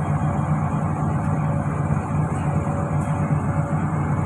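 Hitachi Zaxis 210 excavator's diesel engine running steadily at an even, unchanging speed.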